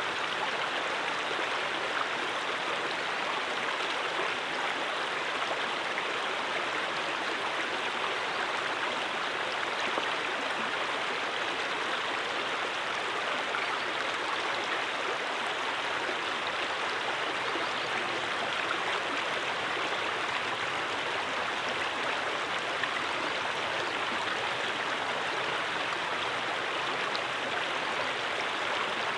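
A stream flowing steadily, an even rush of water with no pauses or changes.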